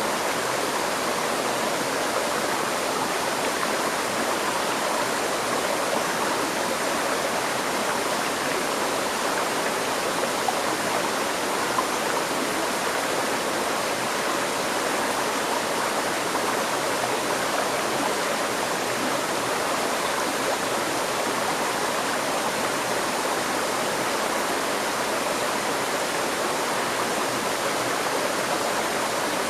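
A stream of water flowing steadily over rocks, a continuous even rush with no breaks.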